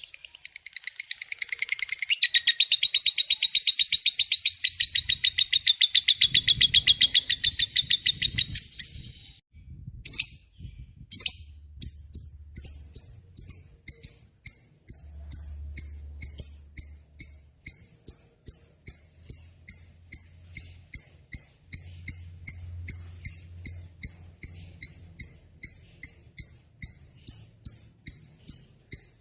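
Lovebird in full song giving its long 'ngekek' chatter: a fast, unbroken high-pitched trill for about nine seconds, then, after a brief pause, sharp high chirps repeated steadily about two or three times a second.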